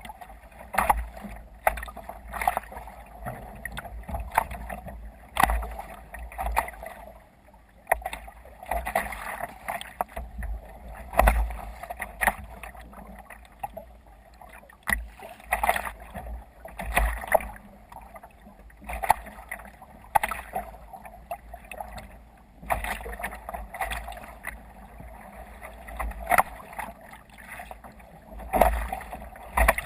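Water splashing and slapping against a sailing kayak's hull in waves, in irregular bursts every second or two, over a low rumble.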